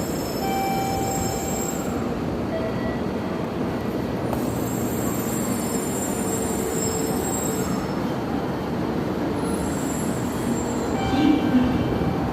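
N700-series Shinkansen train pulling into a station and slowing on its brakes: steady running noise with high-pitched brake and wheel squeals that come and go.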